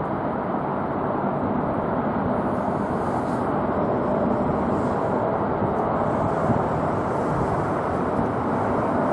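Steady jet noise from a Boeing 747-400 freighter's four engines as it flies past, with a faint steady whine in the middle, growing slightly louder.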